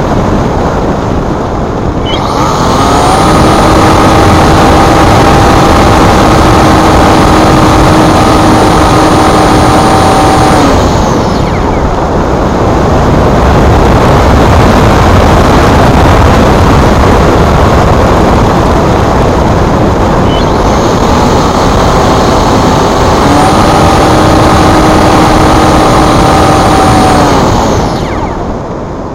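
Wind buffeting the microphone, with two runs of a steady high whine from the Multiplex Blizzard RC glider's electric motor under power: the first starts about two seconds in and lasts some eight seconds, the second starts near twenty seconds in and runs about seven seconds, each stopping fairly suddenly.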